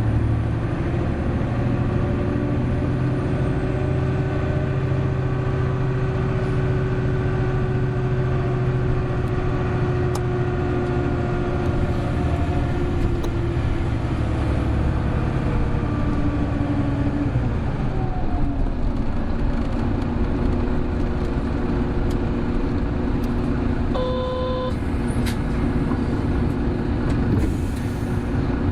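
Hino Blue Ribbon City Hybrid diesel bus under way, its engine running steadily while the pitch rises slightly, then drops off partway through and settles at a lower note. A short electronic beep sounds near the end.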